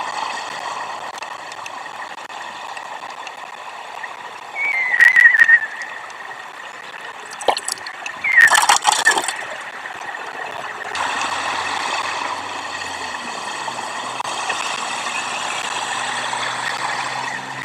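Steady road traffic noise with two short, loud squeals about five and eight and a half seconds in, each falling in pitch, the second followed by a clatter of sharp clicks. A low engine hum comes in after about eleven seconds.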